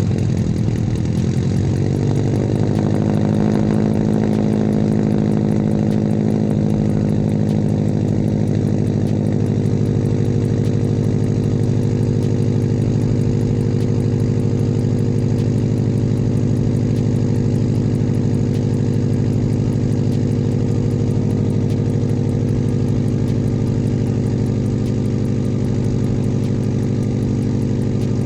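Straight-piped Subaru WRX turbocharged flat-four idling just after starting, its pitch settling over the first couple of seconds and then holding a steady, loud rumble.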